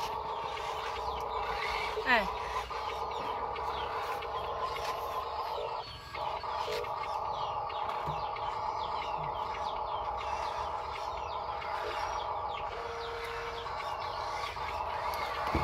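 Huina 1582 RC dump truck's electric motors and gearbox whining steadily, cutting out briefly about six seconds in, with a short sharp falling sweep about two seconds in.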